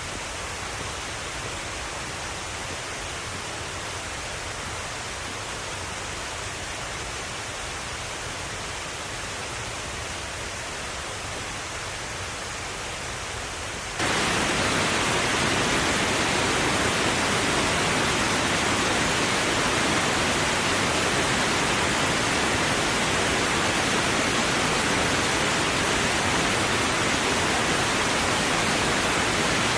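Steady rushing water, an even hiss without separate drops, that jumps suddenly louder about halfway through.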